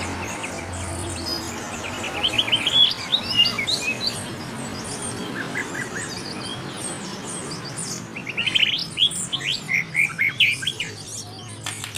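Caged songbird singing: fast runs of high chirping notes in two bursts, about two seconds in and again from about eight and a half seconds in.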